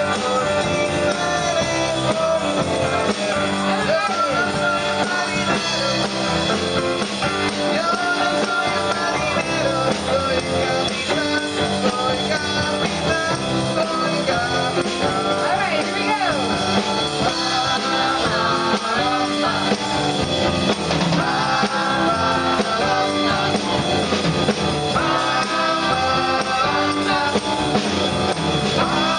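Live amateur rock band playing a rock-and-roll song, with a drum kit and voices singing.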